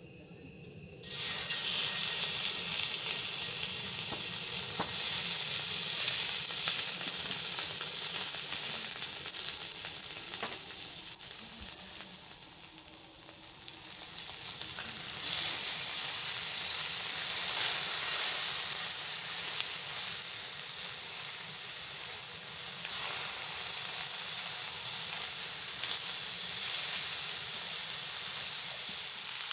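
Food frying in a hot pan: a loud sizzle starts suddenly about a second in, eases off around the middle, then jumps back up as strongly as before.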